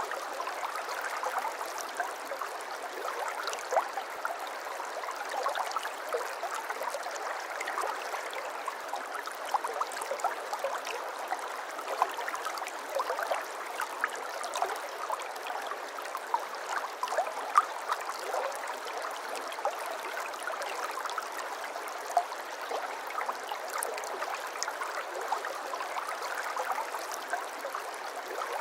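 A small stream of water flowing and babbling steadily, with many small splashes and plops over a constant rush.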